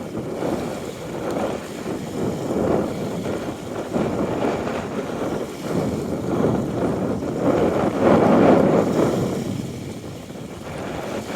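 Wind gusting against the microphone over small lake waves lapping at the shore, a rushing noise that rises and falls in swells, strongest about eight seconds in.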